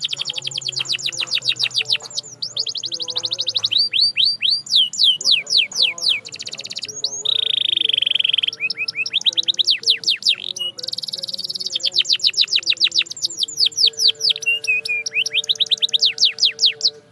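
Canary singing: fast trills of rapidly repeated, downward-sweeping high notes, broken by short pauses, with one long held whistle about seven seconds in.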